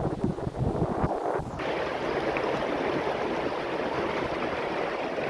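River water rushing in a steady roar, with gusts of wind buffeting the microphone for about the first second and a half.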